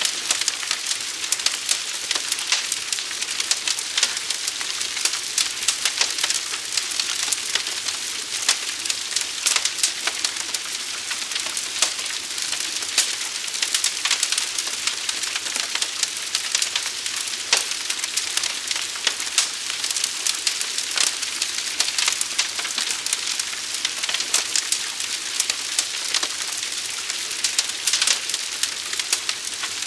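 Fire burning with a steady hiss and dense, irregular crackling, many sharp pops a second.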